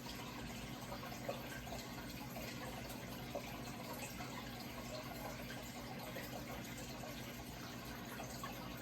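Steady running water trickling and splashing, with a faint steady low hum underneath. Two brief louder drips or splashes come about a second in and about three seconds in.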